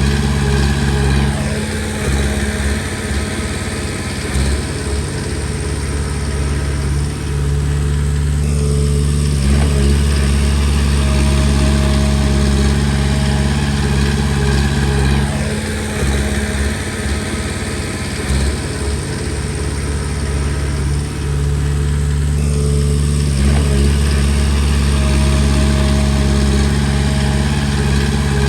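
Komatsu D20P crawler bulldozer's diesel engine running steadily, its note shifting with short pitch glides about every seven seconds.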